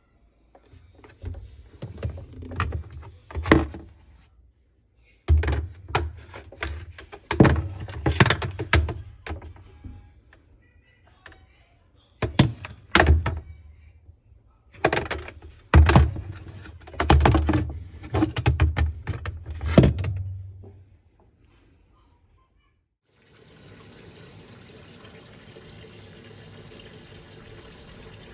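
Washing machine knocking and thudding heavily in uneven clusters over a deep rumble, the sign of a machine that has broken down. About two seconds after the knocking stops, water starts running in steadily.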